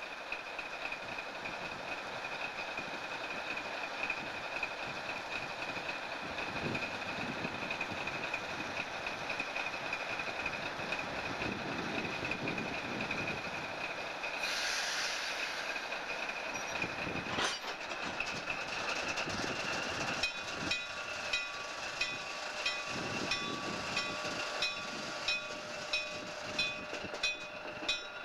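USAF switch engine 4040 and coal cars rolling along rail track, with a steady high-pitched whine and a brief hiss about halfway. In the last third the wheels click regularly over the rail joints, roughly one and a half clicks a second.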